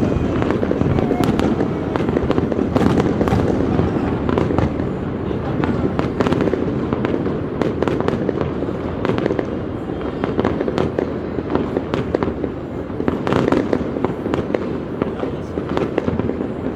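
Aerial fireworks display going off continuously: a steady rumble of bursts with many sharp bangs and crackles scattered through it.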